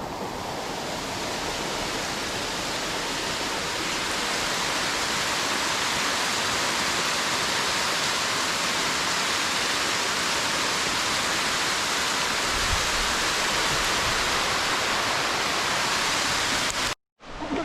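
Steady rush of a waterfall and river running close by, a dense even hiss of water that cuts off abruptly near the end.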